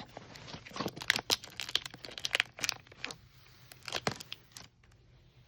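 A box's packaging being cut open and handled: irregular crackling, crinkling and tearing sounds with sharp clicks, dying down after about four and a half seconds.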